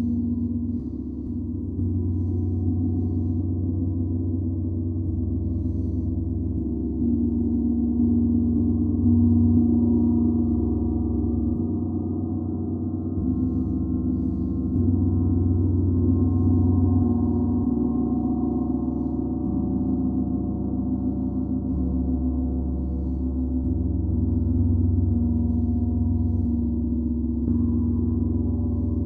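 Gong played continuously: a sustained, layered drone of low tones that swells and ebbs without a break.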